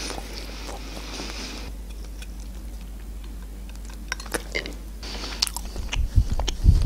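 Close-miked chewing of soft imitation crab sticks, with small wet mouth clicks and a brief sip through a drinking straw about four seconds in. Near the end comes a louder spell of biting and chewing with a few low thuds.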